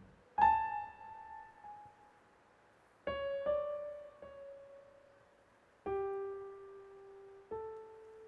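Slow, sparse piano introduction: single notes struck a second or two apart, each left to ring and fade, the melody drifting lower.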